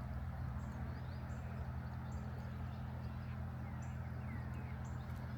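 A steady low hum of several tones, with faint high bird chirps repeating about once a second and a few short falling calls.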